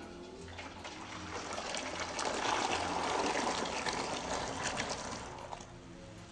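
Liquid being poured in a thin stream, a trickle that swells for a few seconds and then fades.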